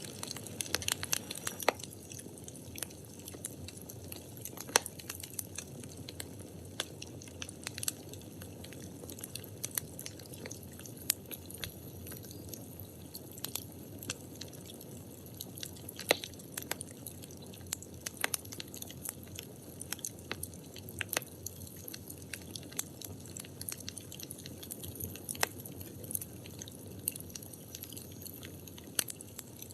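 Wood fire burning: steady low rumble of the flames with frequent irregular crackles and pops from the burning firewood, a few of them sharper and louder.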